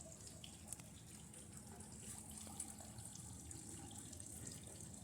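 Faint sizzling with scattered small crackles from a circuit board being burned by high current from a lead-acid battery, over a steady low hum.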